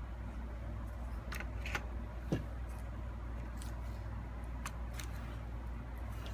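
Scattered small clicks and taps of laptop parts being handled during disassembly, about six in all, over a steady low hum.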